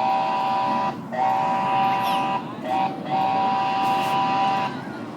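Miniature zoo train's whistle sounding a steady two-tone chord in four blasts, long, long, short, long, over the low rumble of the train.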